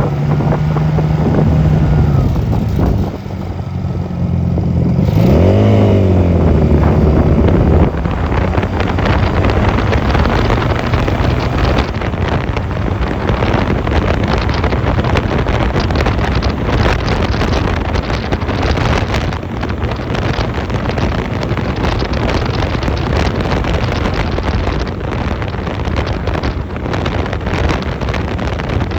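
Honda 250cc motorcycle engine running on the move, with a quick rev up and back down about five seconds in. After that, wind rushing over the microphone covers most of the engine.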